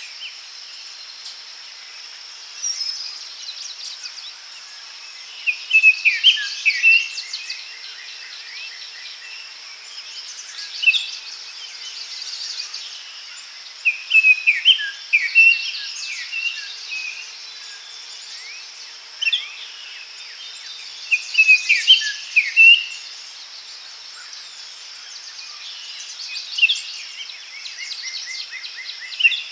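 Daytime forest ambience: songbirds singing short phrases of quick chirps and whistled notes every few seconds, over a steady high-pitched drone of insects.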